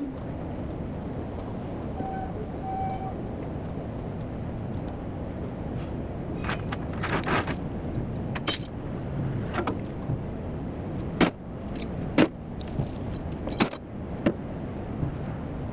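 Steady engine rumble with a series of sharp metallic clinks and clanks in the second half.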